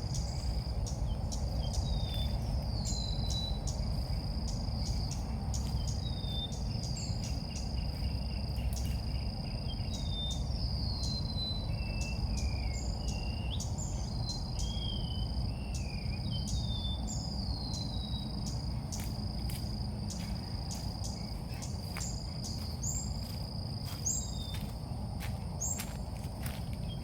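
Repeated short chirps of the chim ốc mít, each sliding downward, coming every second or two, as in a call used to lure the birds to a trap. A steady high insect trill and a low rumble run beneath, with scattered clicks.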